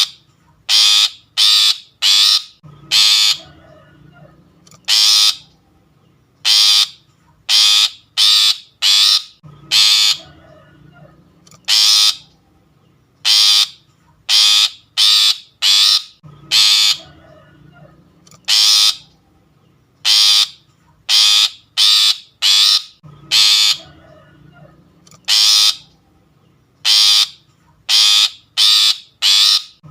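Long-tailed shrike (pentet) lure call: loud, harsh, rasping calls, each well under a second, repeated in quick groups of two to four with short pauses between groups. It is a recording of the kind played to draw shrikes in for trapping.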